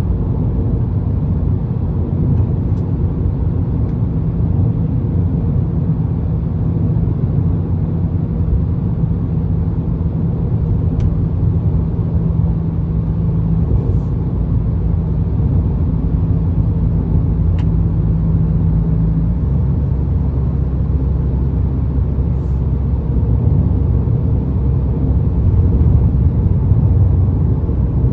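2022 Ford Maverick with a Magnaflow aftermarket exhaust, heard while driving: a steady low exhaust drone mixed with wind and road noise. The drone's pitch drops about two-thirds of the way through.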